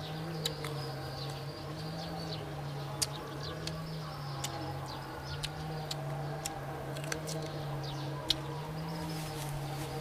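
Crunching and chewing of crisp unripe green mango slices, with a few sharp crunches standing out. Underneath is a steady low hum that swells and fades about once a second.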